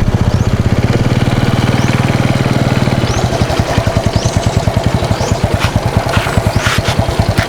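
A small engine idling with a fast, even putter. About three seconds in its low steady hum drops away while the putter carries on.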